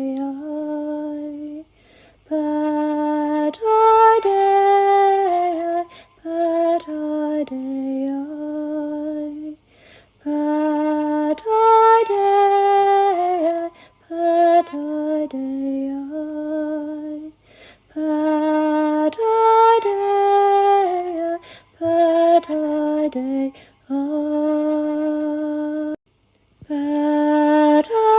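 A woman singing alone, a slow, lullaby-like channelled healing chant with no accompaniment, in short phrases separated by brief pauses. The same melodic phrase repeats about every eight seconds.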